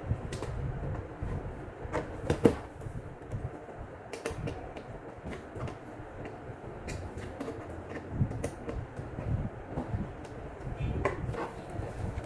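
Scattered clicks and knocks of objects being handled, over a low rumble, with one louder knock about two and a half seconds in.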